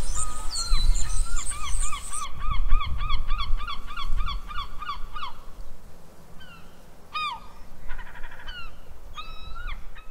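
Bird calling in a quick run of repeated arched notes, about four a second, for several seconds, then a few single calls and a short rattle toward the end, over a low rumble.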